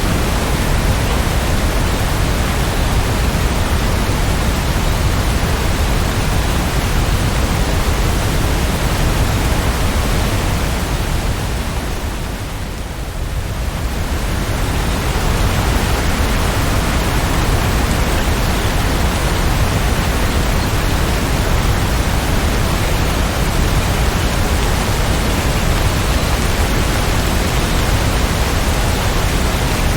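Steady rain falling, an even hiss that dips briefly in level about twelve seconds in.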